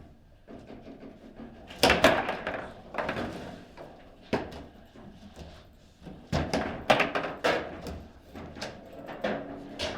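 A table football (foosball) game in play: hard knocks of the ball being struck by the rod figures and hitting the table's walls, with the rods clacking. The knocks come in two rapid flurries, about two seconds in and about six seconds in, with a few more near the end.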